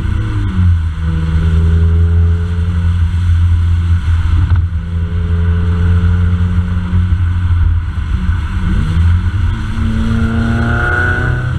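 Subaru WRX's turbocharged flat-four engine droning steadily through an aftermarket cat-back exhaust while cruising. The pitch drops briefly at the start and the revs rise near the end.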